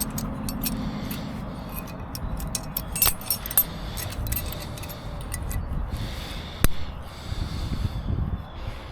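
Scattered metallic clicks and clinks, as of tools or metal parts being handled, with a sharp knock about two-thirds of the way through, over a low rumble.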